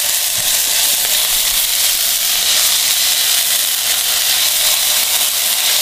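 Potato paste with chilli flakes and coriander sizzling in a little hot oil in a nonstick pan as it is stirred with a silicone spatula: a steady, even hiss.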